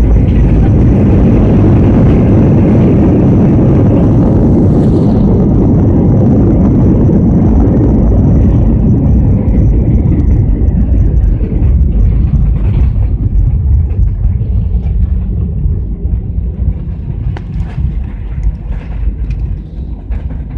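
Airliner cabin noise during the landing roll: a loud, steady rumble of the engines and wheels on the runway that dies down gradually over the second half as the plane slows.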